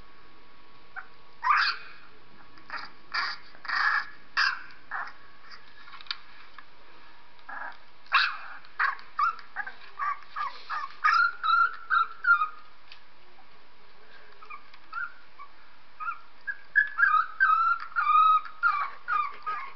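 A very young puppy crying, played back from a video: short, high-pitched squeals and whimpers in three bouts, some calls sliding in pitch.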